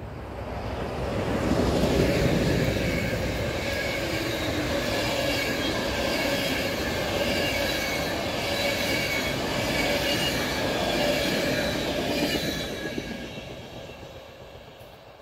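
Electric-hauled passenger train passing at speed: the locomotive's approach swells to a peak about two seconds in, then the coaches' wheels on the rails keep up a steady rumble with a thin high whine over it. The sound dies away as the last coach passes, near the end.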